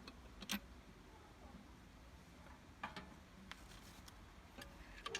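A few faint, sharp clicks and light knocks, about three spread over five seconds, over a quiet low hum.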